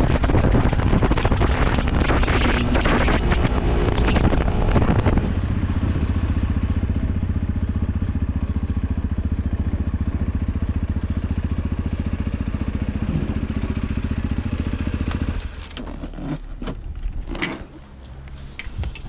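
Motorcycle engine heard with wind rushing over the microphone for the first few seconds, then running steadily at low revs. About fifteen seconds in the engine sound drops away, and a few sharp clicks and knocks follow.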